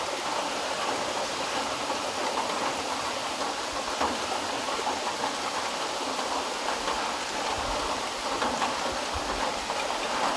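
Heavy monsoon rain pouring onto the open surface of a pond: a steady, dense patter of countless drops hitting water.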